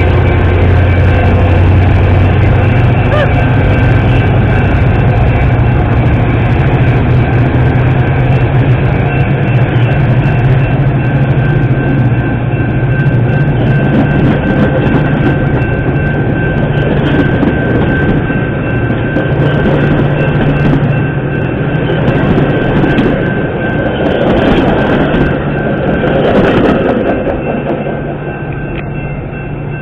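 Metra commuter train pulling out behind two diesel locomotives. The locomotives' engines drone low at first, then the coaches rumble and clatter over the rails as they pass close by, loudest just before the cab car goes by, and the sound falls away near the end. Grade-crossing bells ring steadily throughout.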